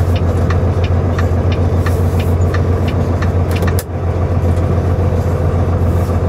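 Semi truck engine running, heard from inside the cab: a steady low drone with a stream of light ticks over it. The level dips briefly about four seconds in.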